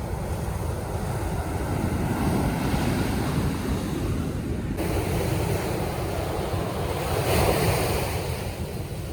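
Ocean surf washing and breaking, with wind buffeting the microphone; the surf swells louder about seven seconds in.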